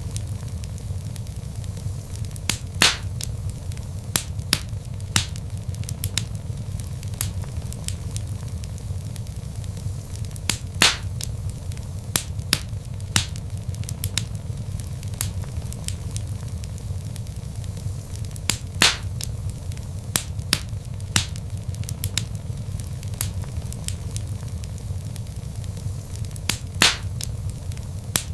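Log fire crackling: irregular sharp snaps and pops over a steady low rumble of the burning fire, with a few louder pops spaced several seconds apart.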